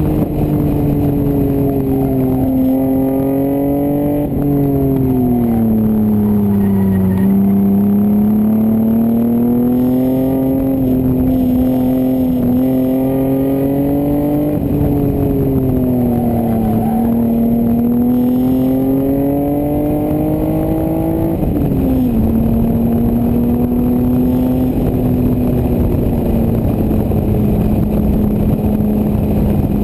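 1988 Toyota Supra's 7M-GE inline-six running through an aftermarket exhaust, driven hard on track. The engine note climbs slowly under throttle and falls away several times, drops suddenly about two-thirds through, then holds steady. There is a rush of wind noise underneath.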